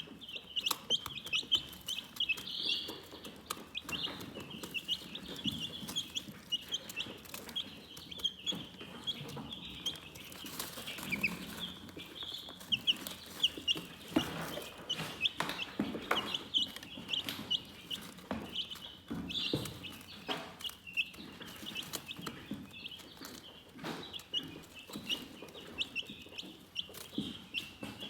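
Chickens chirping without a break: many short, high peeps overlapping, with scattered lower soft clucks and small taps among them.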